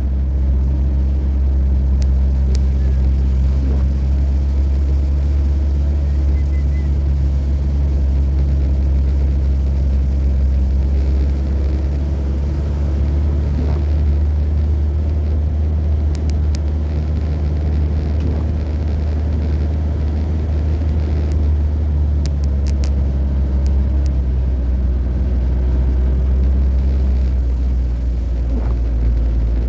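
A motor vehicle driving steadily, its engine and road rumble making a loud, even low drone with a faint engine hum above it. A few faint clicks come in the second half.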